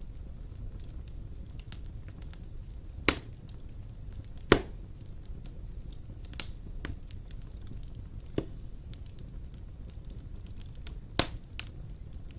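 Wood fire in a fireplace crackling over a steady low rumble, with five sharp pops spread through it, the loudest early on.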